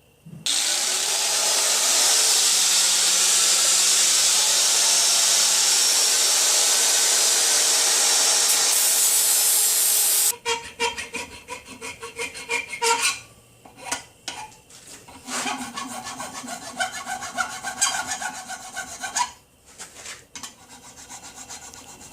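A small power tool spins up and grinds brass steadily for about ten seconds, then stops suddenly. Irregular hand scraping strokes with short pauses follow, like filing or rubbing brass key parts to shape.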